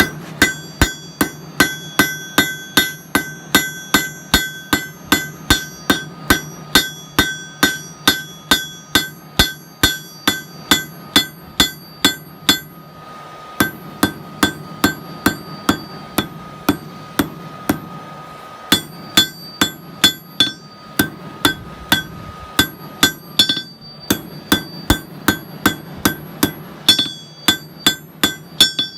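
Hammer blows on hot steel over an anvil, forging a knife blank at a steady pace of about two and a half blows a second, each blow ringing. The hammering breaks off briefly twice.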